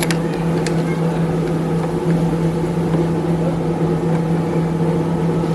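Small electric motor running at a steady speed with a constant hum.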